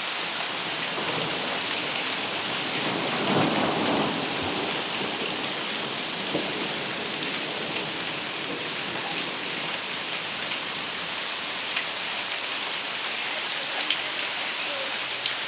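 Steady rain falling, an even hiss with scattered sharp drop ticks, and a brief swell in the lower sound about three seconds in.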